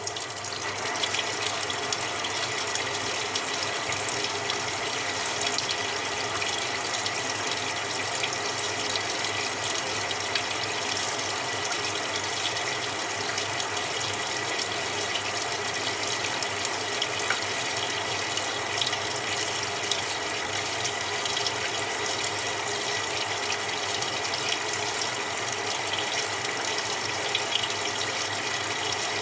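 Samsung 6.5 kg top-loading washing machine filling with cold water: a steady rush of water pouring into the tub.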